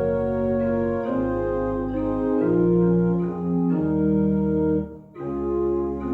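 Organ playing slow, sustained chords that change every second or so, with a short break between phrases about five seconds in.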